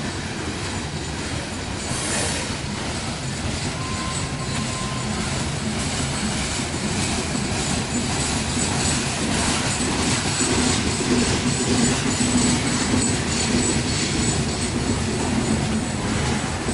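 Coal train's freight cars rolling by: wheels clicking over the rail joints with a faint high wheel squeal. A low steady hum grows louder in the second half.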